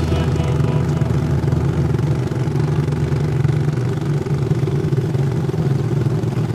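Motorcycle engine of a becak motor (motorcycle rickshaw with a passenger sidecar) running steadily at cruising speed.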